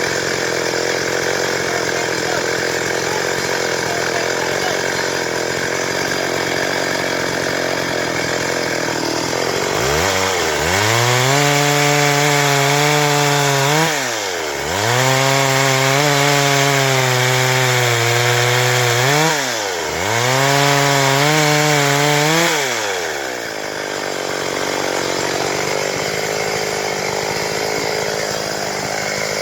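Stihl MS 382 two-stroke chainsaw running steadily, then, about a third of the way in, throttled up hard in three stretches of a few seconds each. The engine note dips briefly between them and drops back down near the end, as it saws through wood.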